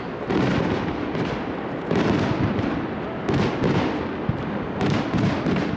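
Aerial firework shells bursting in quick succession, a loud burst about every second and a half over continuous rumbling noise from the display.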